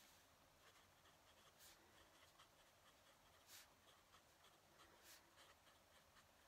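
Fountain pen nib scratching across paper in quick short strokes. It is faint, with three louder scratches a second or two apart.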